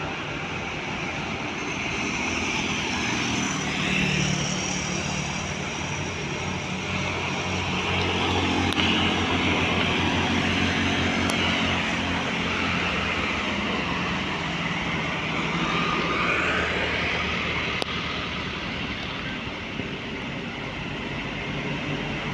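Road traffic passing: heavy vehicle engines running with tyre noise, a steady low engine drone that swells and fades slowly as vehicles come and go.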